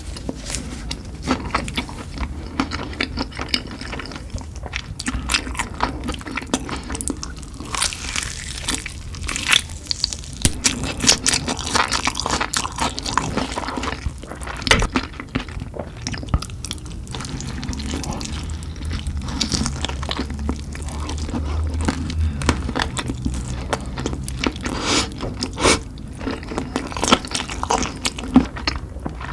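Someone biting and chewing spicy chicken, with irregular crunching and wet mouth sounds.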